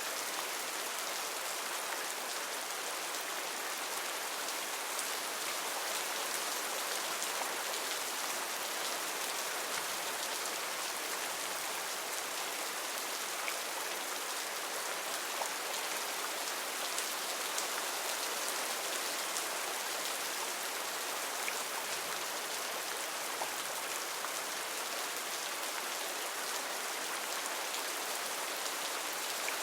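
Heavy rain falling steadily, a dense hiss made of many individual drop ticks.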